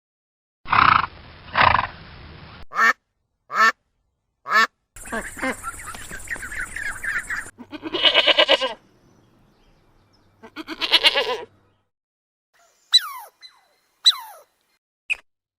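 A run of short animal-call clips cut one after another: about six separate bursts of calls with gaps between them, ending with a few high calls that fall sharply in pitch.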